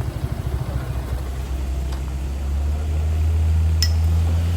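Heavy vehicle engine running close by: a rapid low throb that becomes a steadier, louder drone about halfway through. One short click near the end.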